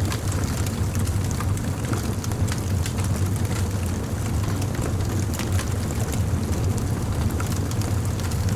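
Wood fire burning: a steady low rumble of flames with frequent small sharp crackles and pops.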